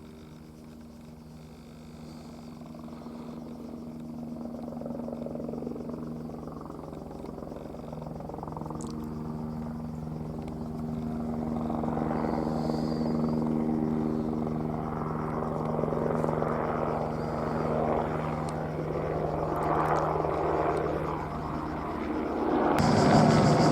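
Airbus AS350 Écureuil helicopter approaching, its steady rotor and turbine hum growing steadily louder. The sound changes abruptly near the end.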